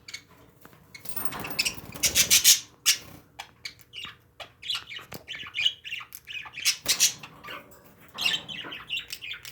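Pet parakeets chirping and squawking in quick, short calls, with a brief flurry of rustling about a second in.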